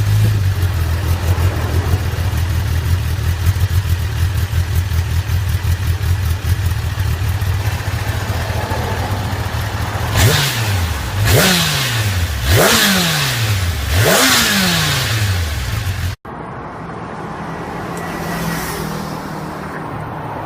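Kawasaki Ninja ZX-10R inline-four idling steadily through a Yoshimura R-11Sq Cyclone slip-on muffler. About ten seconds in it is blipped four times in quick succession, each rev climbing sharply and dropping back to idle. After a sudden cut near the end it idles again, more quietly.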